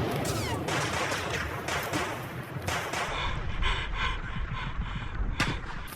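Airsoft rifles firing in an exchange of fire, with single shots and rapid bursts overlapping.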